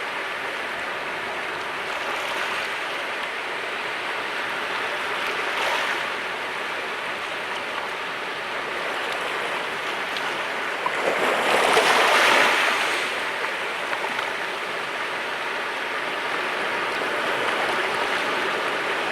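Sea waves washing on the shore in a steady rush of surf, with one louder wave breaking about eleven seconds in and smaller swells before it.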